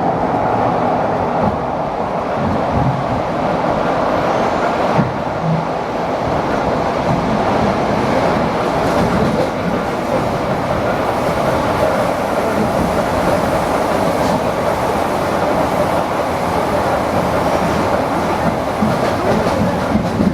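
ED4M electric train running at speed, heard from inside the carriage: a steady rumble of wheels on rails, with a single sharp knock about five seconds in.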